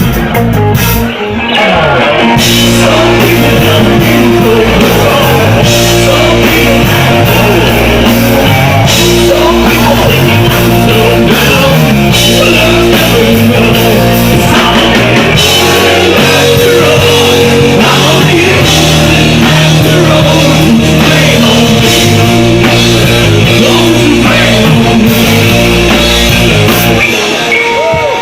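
Rock band playing loudly, with electric guitar, drum kit and a singing voice; the music drops briefly about a second in, then runs on at full level.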